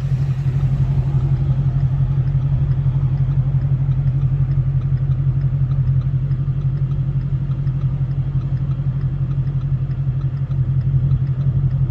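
Car engine running at a steady, even drone, with no revving. It seems to be running well again.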